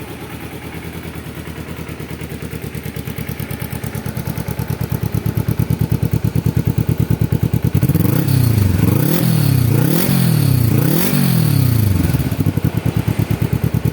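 Carburetted Kawasaki Ninja 250R parallel-twin engine idling through a stock Ninja 250FI silencer with a dB killer fitted, then blipped up and down several times in quick succession from about eight seconds in, settling back to idle near the end.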